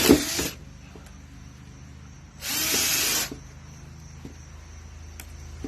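Power drill spinning a carbon steel hole saw in wood. It stops about half a second in, then runs again in one short burst of about a second.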